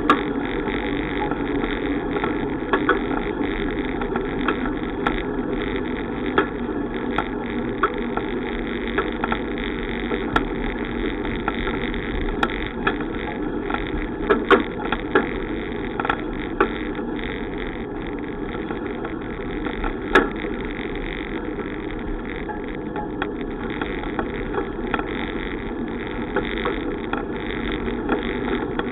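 Steady wind and road noise from a moving bicycle, with scattered sharp clicks and knocks.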